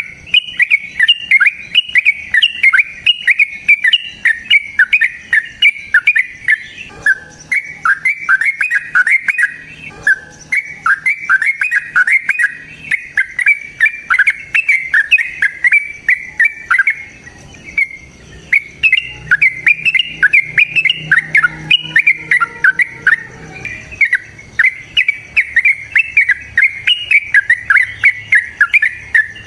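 A caged bird singing long runs of rapid, chattering chirps, with short breaks about ten seconds in and again after about seventeen seconds.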